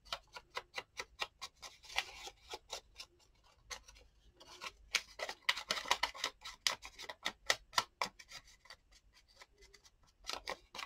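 Ink being dabbed onto the white edges of paper cutouts: quick dry taps, about three or four a second, with a short pause around the middle and another near the end.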